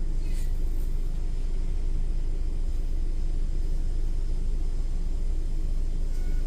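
A car idling, a steady low rumble.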